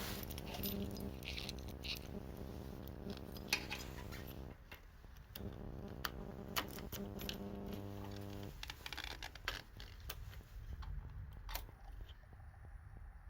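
A small electric motor hums steadily for about four and a half seconds, stops, then hums again for about three seconds before cutting off. Metallic clicks and jingling sound throughout, like keys being handled.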